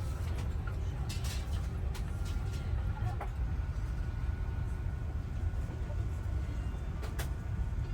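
Steady low cabin rumble inside an Airbus A350-1000 parked at the gate before departure, with a few light clicks and a faint steady high tone joining about two seconds in.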